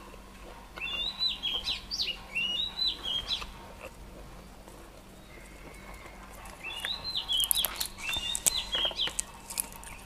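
A songbird singing in two bursts of quick, high chirping phrases, about a second in and again around seven seconds in.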